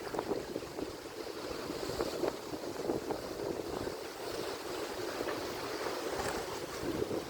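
Atlantic Ocean surf: a steady rush of waves breaking and washing on the shore, with small splashes and no single crash standing out.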